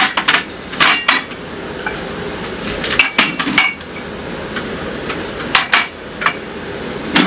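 Hard objects clinking and clattering, with irregular sharp knocks and a few short ringing clinks, the sound of dishes or kitchen items being handled.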